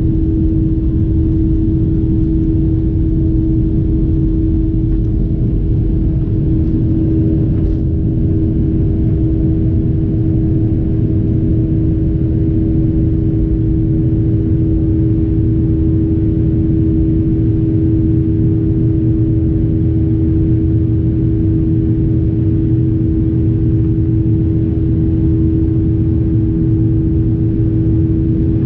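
Jet engine noise heard inside the cabin of a Boeing 737 airliner during takeoff: a loud, steady rumble with a constant hum running over it.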